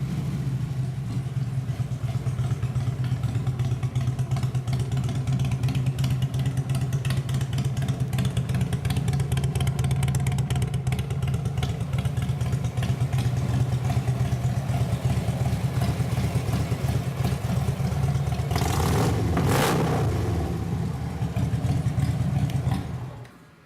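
Harley-Davidson Road Glide's 103-cubic-inch fuel-injected Twin Cam V-twin idling steadily through slip-on pipes that the seller believes have been debaffled. It is revved once, rising and falling, about nineteen seconds in, and cuts off shortly before the end.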